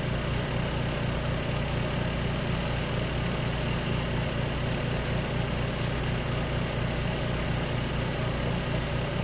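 Compact RV washing machine's motor running steadily: a low hum with a fast, even pulsing throb and a layer of rushing noise on top.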